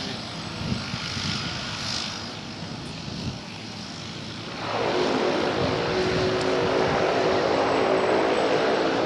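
Light propeller airplane's engine: a low haze that swells sharply about halfway through into a loud, steady engine drone with several even tones.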